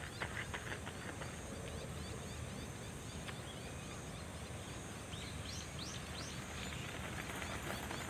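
Outdoor background with a steady low rumble. About two-thirds of the way in, a small bird gives four quick high chirps.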